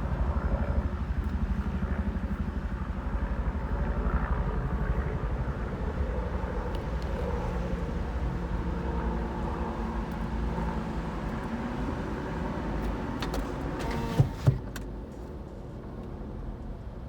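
A vehicle engine running steadily with a low, even throb. Two short sharp knocks come about 14 seconds in, after which the engine sound is a little quieter.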